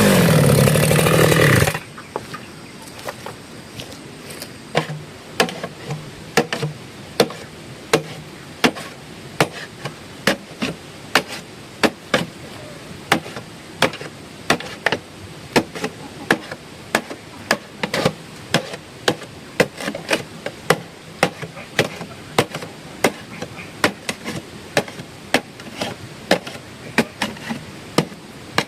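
A loud motor runs for about the first two seconds and cuts off suddenly. Then comes a long, even series of sharp chopping strikes, about one and a half a second, from work on the pond bank.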